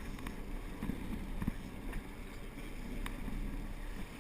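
Steady low drone of a fishing boat's engine at sea, with wind on the microphone and a few light knocks.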